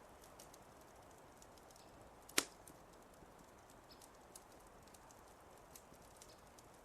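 Wood fire crackling faintly, with scattered small ticks and one loud sharp pop about two and a half seconds in.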